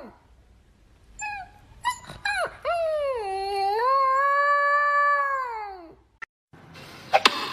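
A dog howling: a few short yips a little over a second in, then one long howl that dips and rises in pitch and fades out about six seconds in. Near the end, a few sharp knocks.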